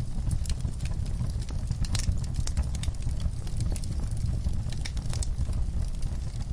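Wood fire burning in a fireplace: a steady low rumble with irregular sharp crackles and pops, a few of them louder, such as one about two seconds in.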